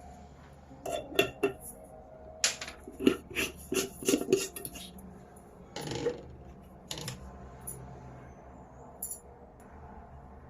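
Kitchen dishes and cutlery clinking and knocking: a quick run of clinks for a few seconds, then a few louder, spaced-out knocks.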